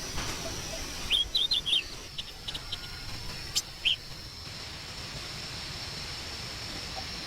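A bird chirps a quick series of short high notes, with a few more chirps and a sharp click a little later, over a steady high insect drone.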